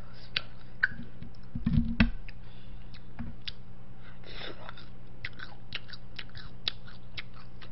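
A person chewing food close to the microphone, with many small wet mouth clicks and smacks. A couple of low thumps come about two seconds in, over a steady low hum.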